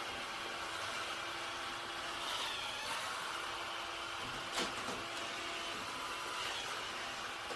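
iRobot Roomba Combo j5 robot vacuum running with a steady motor whir and a constant hum. There is one brief click about four and a half seconds in.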